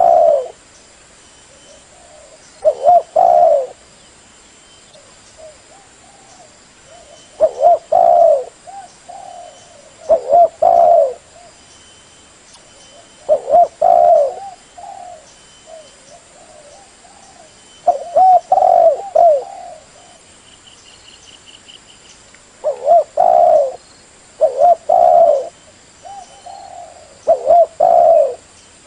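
Spotted dove (tekukur) cooing: short phrases of several low coos, repeated eight times about every three to five seconds.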